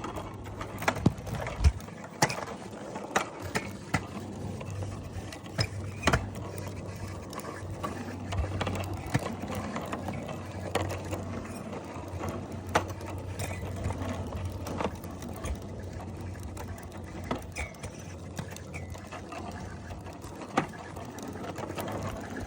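Bicycle ride noise: a steady low hum under irregular clicks and rattles, with a ratcheting, mechanical character.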